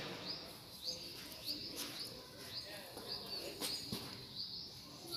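Faint bird chirping: short high chirps repeated about every half second, with a few soft clicks.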